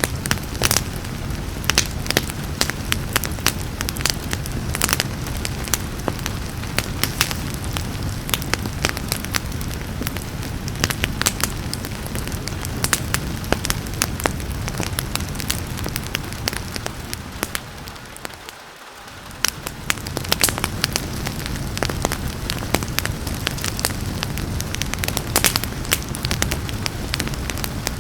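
Wood fire crackling with frequent sharp pops over a steady rain hiss. About two-thirds of the way through, the whole sound briefly fades down and back up.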